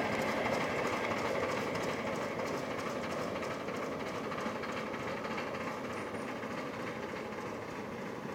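Miniature live-steam train rolling away along the track, its sound fading steadily as it recedes.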